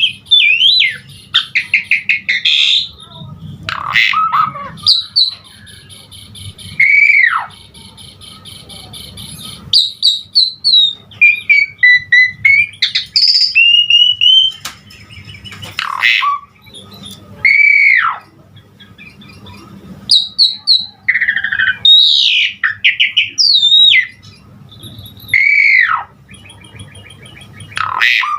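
Asian pied starling (jalak suren) singing a loud, varied song full of mimicked fill-in phrases: rapid chattering note series and clear whistles, with several slurred whistles that rise and then drop away.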